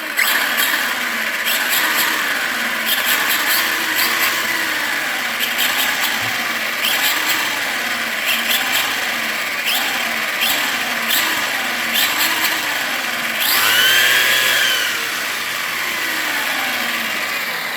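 Arrma Kraton 4S RC truck's brushless electric motor and drivetrain whining as the throttle is blipped over and over, the pitch rising and falling about once a second. About three-quarters of the way through, one longer, higher rev swells up and falls back.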